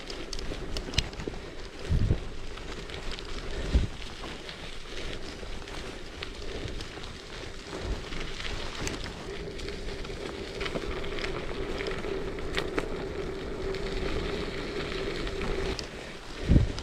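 Wind buffeting the microphone in a few low thumps, over a steady outdoor hiss with scattered small crackles and ticks.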